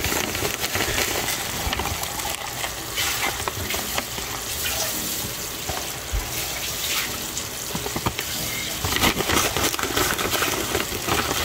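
Banana slices frying in a bubbling butter and brown-sugar syrup in a pot: a steady sizzle full of fine crackles.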